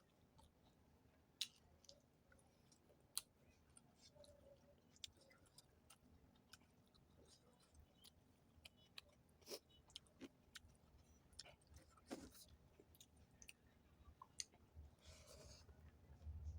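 A person eating, heard faintly close up: quiet chewing with scattered small mouth clicks and smacks.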